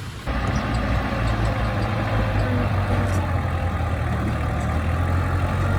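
Heavy earthmoving machine's diesel engine running steadily at a low, even pitch. It comes in abruptly just after the start.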